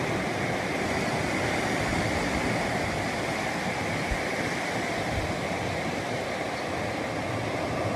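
Surf washing onto a sandy beach, a steady rushing noise.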